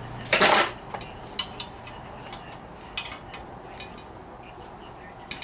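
Metal exhaust parts and hand tools being handled during disassembly: a brief clatter about half a second in, then scattered light metallic clinks.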